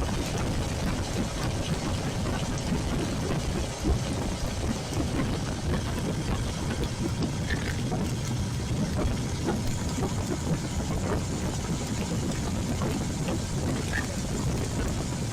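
Royal Enfield Classic 350's single-cylinder engine running on the move, mixed with a steady wash of heavy rain and wet road noise.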